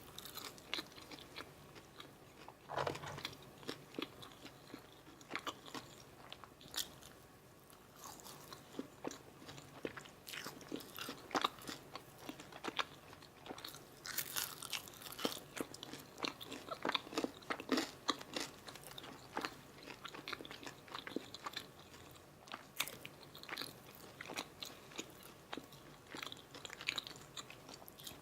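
Close-miked eating of a McDonald's Filet-O-Fish meal: bites and crunchy chewing, with many irregular crisp crackles.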